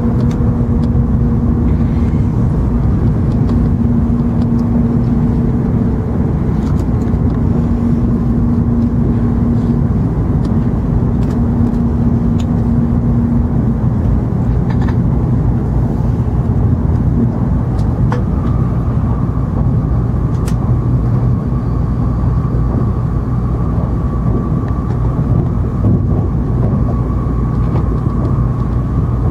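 Steady running noise heard inside the cabin of an N700 series Shinkansen: a low rumble with a humming tone that stops about halfway through, and a higher steady whine that comes in later.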